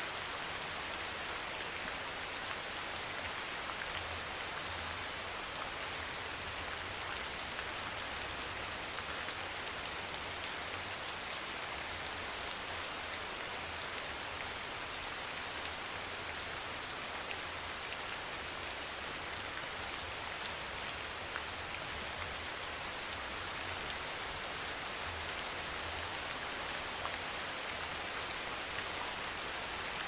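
Steady soft rain falling: an even hiss with faint scattered drop ticks.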